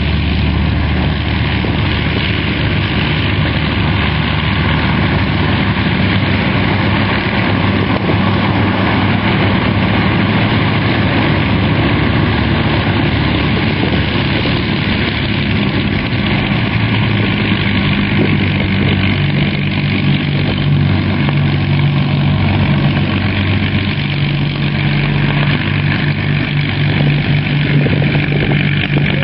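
Piston-engined propeller aircraft running steadily, with a low engine drone that shifts in pitch about halfway through and again near the end.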